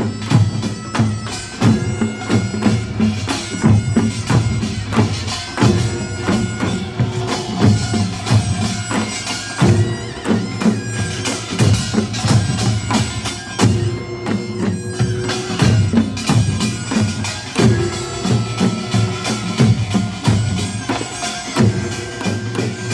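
Korean nongak (pungmul) band playing: drums and small hand gongs strike in a fast, driving rhythm while a loud reed shawm, the taepyeongso, holds a piercing melody above them.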